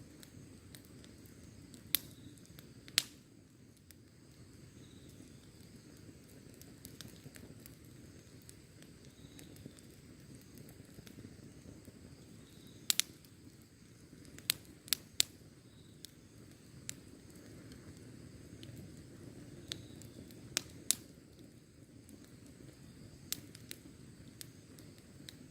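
Wood campfire burning: a low, steady rush of flame with about a dozen sharp pops and crackles from the burning wood, scattered through and bunched near the middle.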